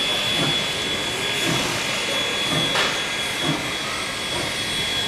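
BB18¼ steam locomotive hissing steam over a steady running noise, with a brief louder hiss about three seconds in.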